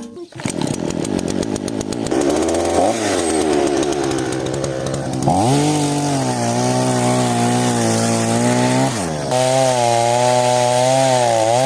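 Small two-stroke engine running: it starts unsteady at low revs, then revs up to a high steady pitch about five seconds in. It dips briefly near the nine-second mark, revs up again, and winds down at the end.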